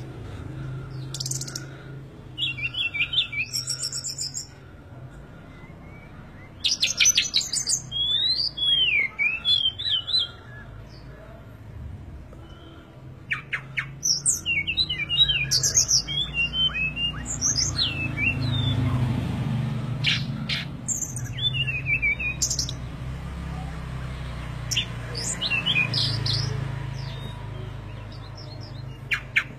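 Small birds chirping and calling in quick, high sweeping notes, in bouts every few seconds. A low steady hum runs underneath.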